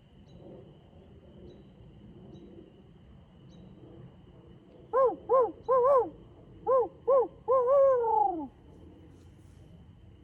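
Barred owl hooting: a run of loud low hoots in two groups in the "who cooks for you, who cooks for you-all" rhythm, the last note drawn out and falling away.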